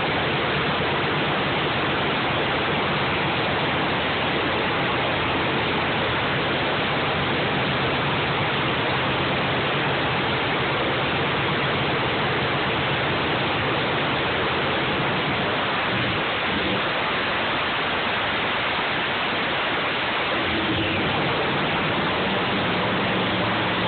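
Engine under test running loudly and steadily at a constant speed, its noise filling the phone microphone like rushing water.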